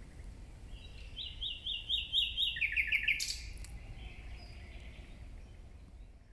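A songbird singing one phrase: a run of about six repeated high notes that drops into a quicker, lower series and ends about three seconds in.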